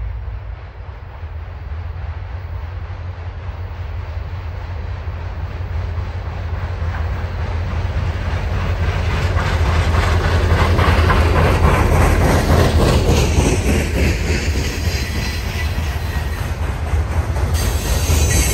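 Lake State Railway EMD GP40M-3 diesel locomotive and its road slug approaching and passing, the engine rumble building to its loudest about two-thirds of the way in. Then loaded freight cars roll by, wheels clicking over the rail joints.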